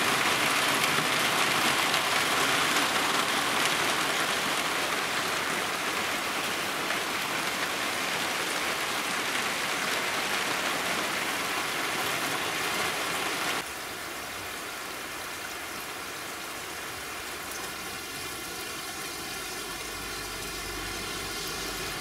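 Steady rain falling. About two-thirds of the way through, the sound drops to a quieter hiss of rain.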